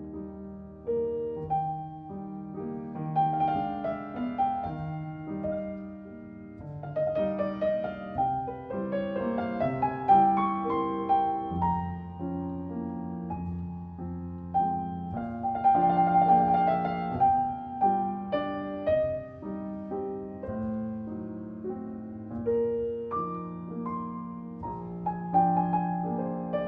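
Background piano music: slow classical-style piano, chords and melody.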